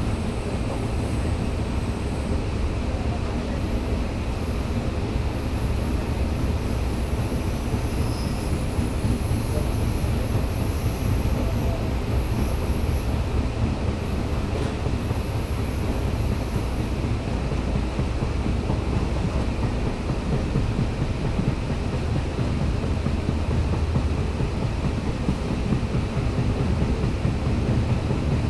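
Steady running noise of an LHB passenger coach at speed: a continuous rumble of wheels on the rails, heard at the coach's open side.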